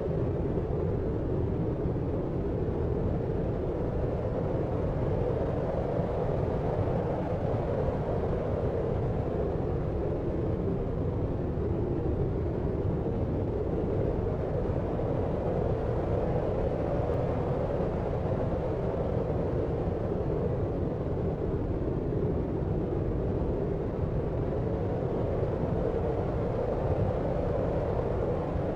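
Deep sleep-aid noise: a steady, unchanging rumbling rush, muffled and low, with no high hiss and no separate sounds in it.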